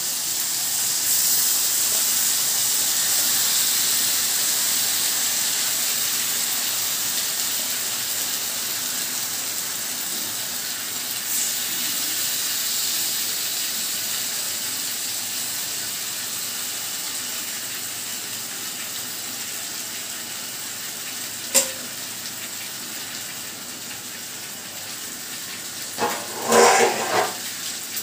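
Marinated chicken pieces sizzling as they go into a hot kadai of fried onions and spices on a gas burner. The frying hiss swells about a second in and slowly dies down. There is a single sharp tap about two-thirds of the way through and a short clatter of knocks near the end.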